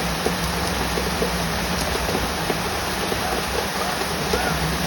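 Heavy rain pouring down in a steady hiss, with scattered drops pattering, over a constant low hum.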